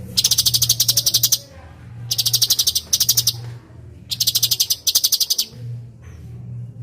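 A cucak cungkok songbird giving three bursts of rapid, very high-pitched chattering notes, about a dozen a second, each burst lasting a second or so. A low steady hum runs underneath.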